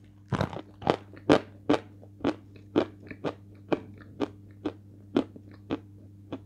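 Close-up crunching as a mouthful of hard white edible chalk is chewed, sharp crunches coming steadily about two a second.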